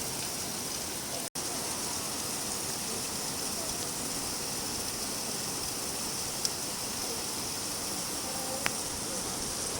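Steady rainfall, an even hiss of drops with a couple of single drop ticks. The sound cuts out for an instant about a second in.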